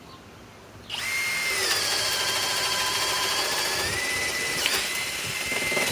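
Cordless hammer drill on its low speed setting boring a 1-1/4 inch auger bit through a thick board. The motor starts about a second in and runs with a steady whine. The whine drops in pitch under load for a couple of seconds, then rises back about four seconds in.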